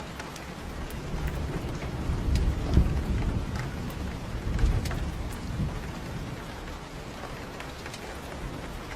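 Steady rain falling, with a deep roll of thunder that swells about a second in, is loudest around the middle and fades away by about seven seconds. Scattered light ticks sound through the rain.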